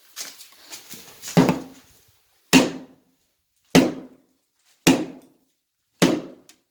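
Heavy hammer blows on a brick wall, five sharp strikes about a second apart, knocking out brickwork. A scatter of clattering debris comes before the first blow.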